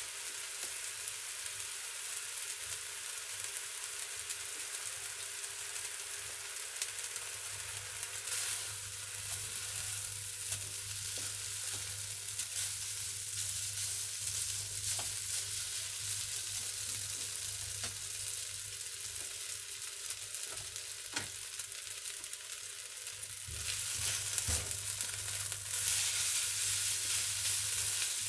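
Instant noodles with diced ham sizzling as they pan-fry in a nonstick wok, with a few sharp clicks as a wooden utensil stirs them. The sizzle grows louder about three-quarters of the way through.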